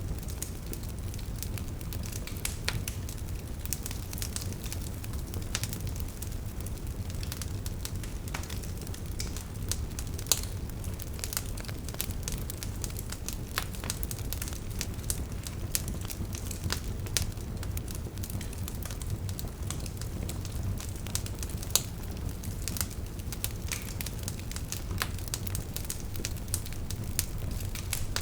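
Wood fire burning, with a steady low rumble and frequent irregular sharp crackles and pops from the logs.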